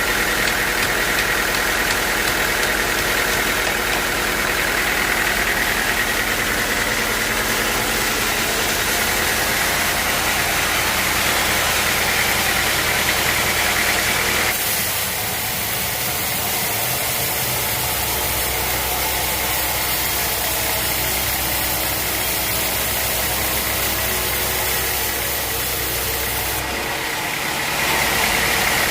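Sawmill machinery running with a steady mechanical drone. The sound changes abruptly about halfway through and again near the end.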